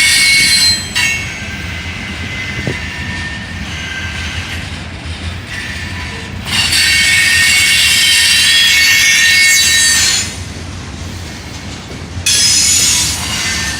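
Norfolk Southern train rolling past with a steady low rumble, its wheels squealing in high, steady tones that cut in and out: loud at the start, again through the middle, and once more near the end.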